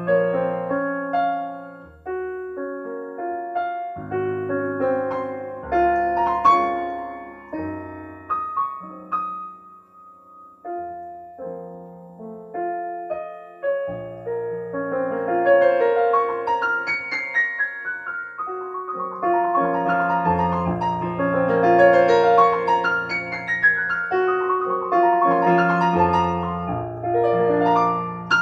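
Solo piano playing a slow passage of melody over chords, with no voice; it grows fuller and louder about halfway through, with deeper bass notes.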